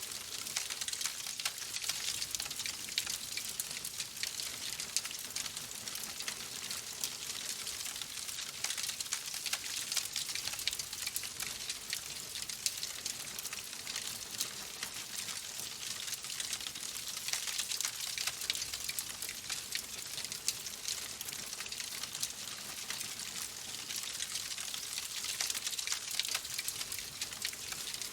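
Wood fire in a fireplace crackling steadily: a dense patter of small pops and snaps over a soft hiss.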